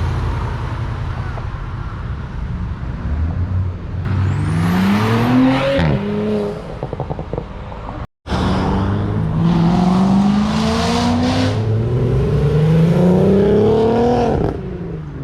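Cars accelerating hard away from a car meet, engine note rising sharply. There are two separate pulls, and the second, about eight seconds in, climbs in pitch in steps like upshifts.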